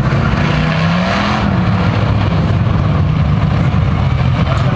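Engines of a field of Thunder Truck race trucks running together on the track, a steady loud rumble with one engine note rising a little in the first second or so.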